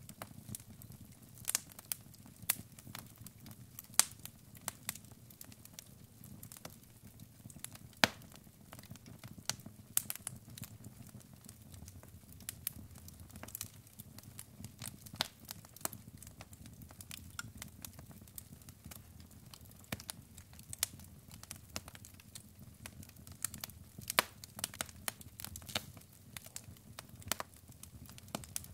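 Wood logs burning in a fireplace: irregular sharp crackles and pops, some louder than others, over a low steady rumble of the flames.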